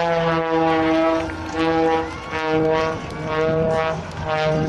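Propeller engine of the Oracle Challenger III aerobatic plane droning at a steady pitch, the sound dipping briefly every second or so.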